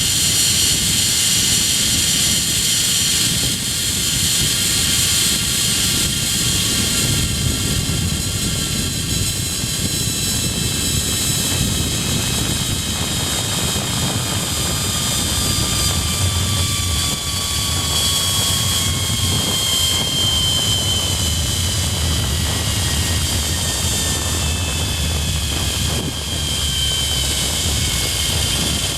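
Zipline trolley pulleys running along the steel cable with a steady whirring whine whose pitch slowly falls through the second half as the ride slows, over heavy wind rush on the microphone.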